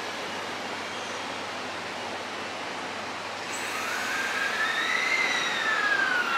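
Electric train running at the station: a steady rumbling hiss, then a high whine that comes in about halfway, rises in pitch and falls again as the noise grows louder.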